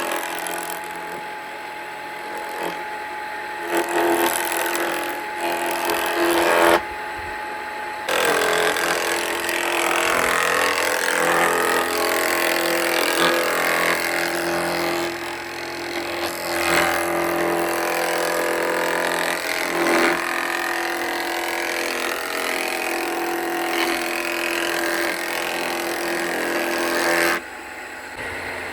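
Homemade electric woodworking machine running with a steady motor hum, its cutting or sanding noise rising and falling as the wood is worked. The sound changes abruptly a couple of times.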